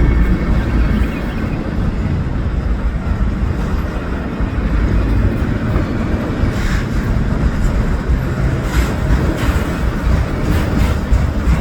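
A train passing by, giving a steady low rumble with a few sharp clacks in the second half.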